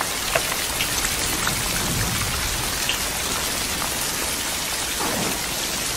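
Steady rain pouring down, an even hiss with a few faint drip clicks.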